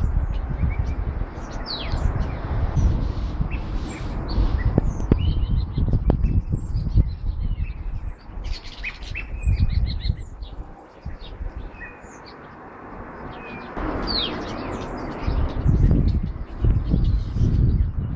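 Several small birds chirping and singing: many short high chirps and quick downward-sweeping notes, dense in places. Under them a heavy low rumble comes and goes, louder than the birds, easing off for a couple of seconds about two-thirds of the way through.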